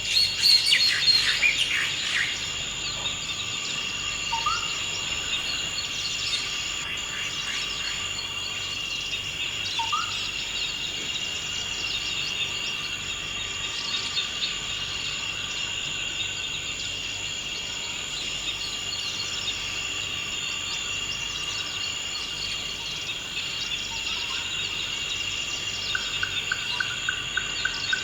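Forest ambience: insects drone steadily at two high pitches throughout. Birds call over them, with a burst of chirping in the first two seconds, a short rising whistle every several seconds, and a quick run of repeated notes near the end.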